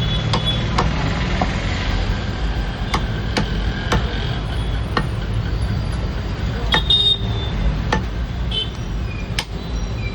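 Butcher's cleaver chopping mutton: sharp single strikes at an uneven pace, about one every half second to a second, over a steady low rumble of traffic.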